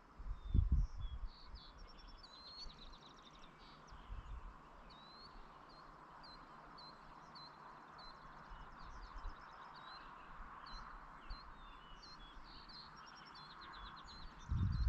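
Birds chirping in short, quick, repeated calls over a steady outdoor hiss. A low rumble comes about half a second in and again near the end.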